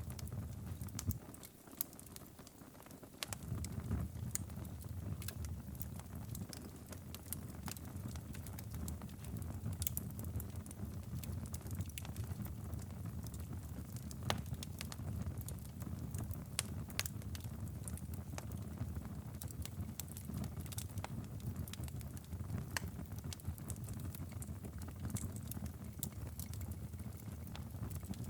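Wood fire crackling in a fireplace: frequent sharp pops and snaps over a low steady rumble of flames. The rumble drops away briefly about two seconds in.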